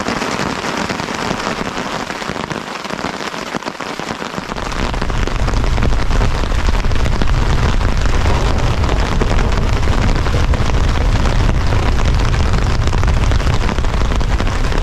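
Heavy storm rain pelting down in a dense, loud patter. About four seconds in, a deep steady rumble of strong wind buffeting the microphone joins it.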